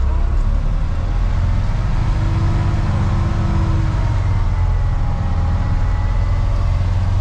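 Off-road haul truck's engine running steadily as the truck is driven over rough ground, heard from inside the cab as a deep, even drone with a faint thin whine above it.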